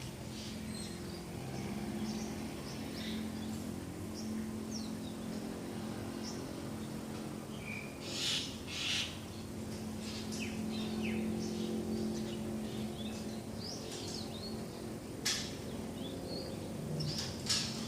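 Birds chirping and calling in the morning: many short, high chirps and whistles, with a few louder calls about eight and nine seconds in and near the end. A steady low hum runs underneath.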